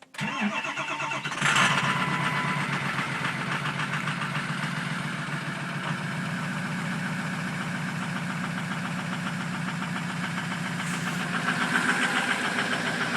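Ford 6.0 Powerstroke V8 turbo-diesel starting cold through its stock exhaust: a brief crank, catching about a second and a half in, then settling into a steady idle.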